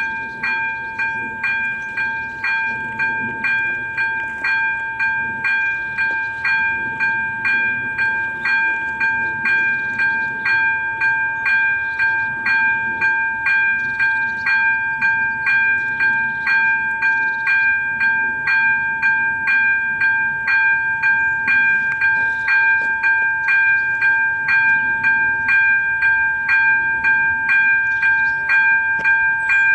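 AŽD ZV02 electronic level-crossing bell ringing in regular strokes about twice a second, growing slightly louder: the crossing's warning is active for an approaching train.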